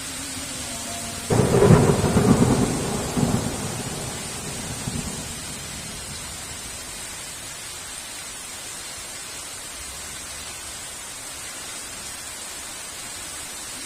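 Heavy rain falling steadily, with a thunderclap that breaks in suddenly about a second in and rumbles away over the next few seconds.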